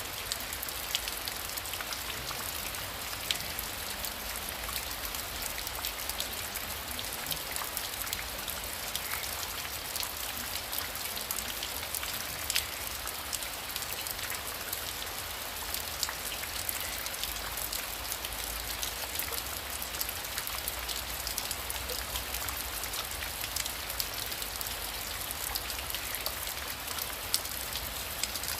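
Heavy rain falling steadily: an even hiss with many separate drop hits standing out as sharp ticks.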